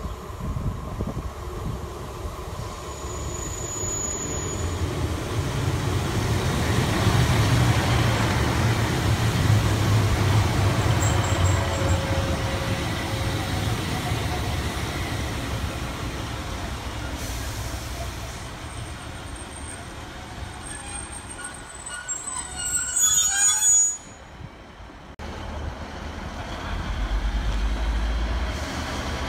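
A passenger train passing, its rumble building over several seconds and holding, with a thin high-pitched squeal near the end before the sound drops off abruptly.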